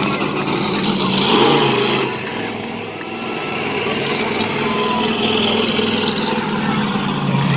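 Monster truck engines running with a steady low rumble, dipping in level about three seconds in and building again toward the end.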